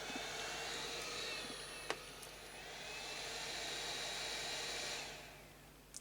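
Hot-air gun of an 858D rework station blowing, its fan having started automatically as the handpiece is tilted out of its holder. It gives a steady airy rush like a small hair dryer, with a single click about two seconds in, and dies away about five seconds in.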